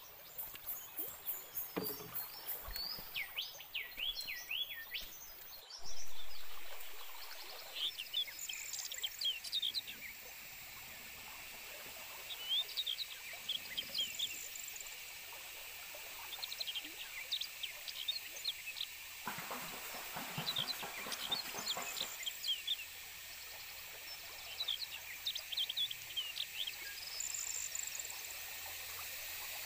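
Forest birds chirping in short, repeated high calls over a steady high hiss, with a single sharp knock about six seconds in.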